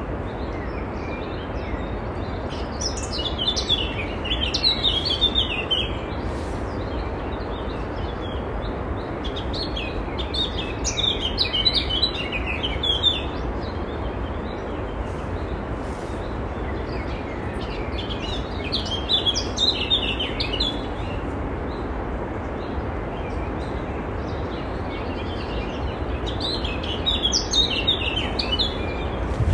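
A songbird singing short twittering phrases, one about every seven to eight seconds, over a steady hiss.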